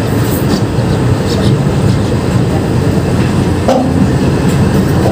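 Passenger train noise: a steady low rumble with a few faint clicks.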